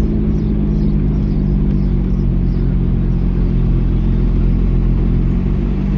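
Lotus Evora's V6 engine running at low, steady revs while the car creeps along looking for a parking spot.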